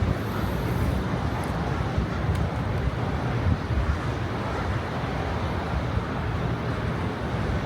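Steady low rumble of outdoor background noise with no separate events standing out.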